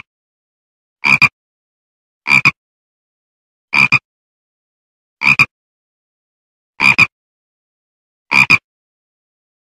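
A frog croaking: six short croaks, each a quick double pulse, spaced about one and a half seconds apart.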